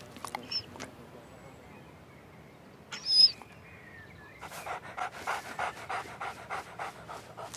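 A cartoon dog panting quickly, about five short breaths a second, starting about halfway through. Before it there is a brief high squeak, which is the loudest sound, and a few faint clicks at the start.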